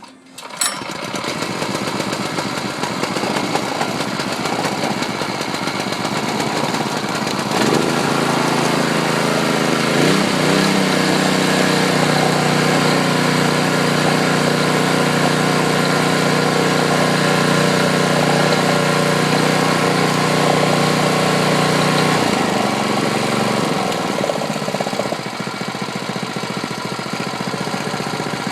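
Brand-new Predator 212cc single-cylinder four-stroke engine catching on its first pull and running: its first start ever, on choke at about half throttle. About seven seconds in it speeds up and gets louder, runs steady, then settles back to a lower speed a little past twenty seconds.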